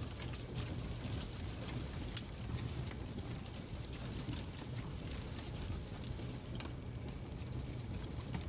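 Fireplace crackling: irregular small pops and snaps over a steady low rumble of the fire.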